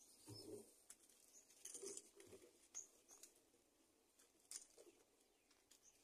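Very faint rustling and light clicking of twigs and feathers as an adult black-winged kite shifts on its stick nest and spreads its wings, with a few brief faint high peeps.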